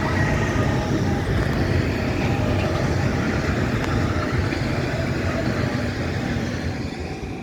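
Electric suburban Metro train passing at speed: a loud, steady rumble of wheels on rail with faint whining tones above it, dying away near the end.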